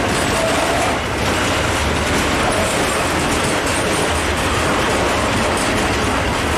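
A loaded freight train of open coal wagons rolling past close by, with the steady rumble and clatter of steel wheels on the rails.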